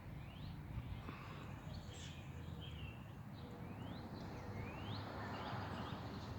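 A bird calling outdoors with a series of short rising chirps, one every second or so, over a steady low background rumble.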